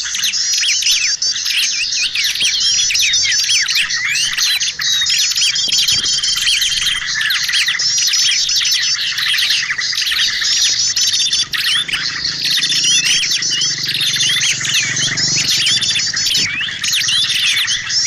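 Bird-lure (pikat) recording of many small birds calling at once. It is a dense, unbroken mix of chirps, rapid trills and short whistles, used to draw wild birds in for trapping.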